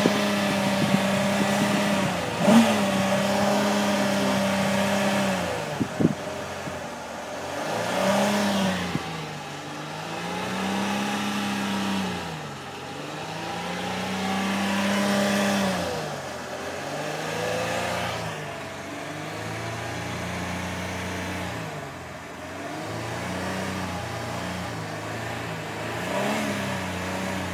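Car engine revved hard by pumping the accelerator pedal: held at high revs for about five seconds, then revved up and let fall again and again every two to four seconds. A couple of sharp knocks come in the first six seconds.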